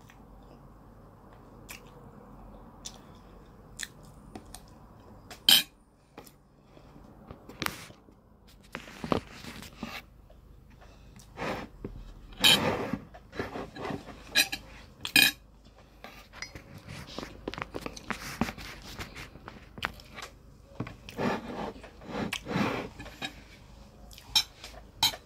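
Close-up eating sounds: chewing and mouth noises over mouthfuls of jollof rice, chicken and salad, with scattered sharp clicks of a fork on the plate. The chewing comes in short spells through the second half.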